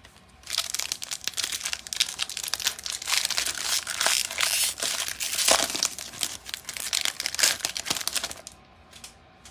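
A baseball card pack's wrapper being torn open and crumpled: dense crinkling that starts about half a second in and stops about a second before the end.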